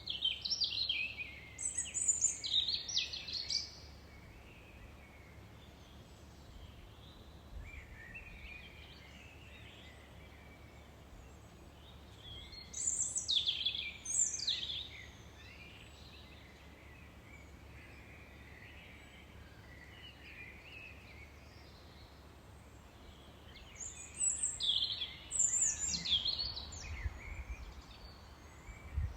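A songbird singing three loud phrases of quick, high chirps and trills, each a few seconds long and about ten seconds apart, with softer calls in between over a steady background hiss.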